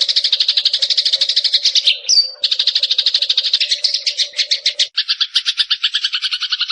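Eurasian tree sparrow song: a fast rattling trill of about a dozen short notes a second, broken by a single higher note about two seconds in. Near five seconds it switches to a different, lower trill.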